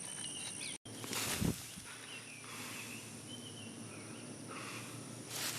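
Outdoor rural background: scattered bird chirps over a steady high insect drone, with a short scuffing noise about a second in and another near the end.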